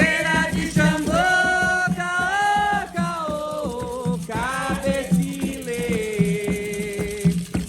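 Voices singing a chanted religious song to Xangô in long held notes, over a shaken rattle and a steady low beat.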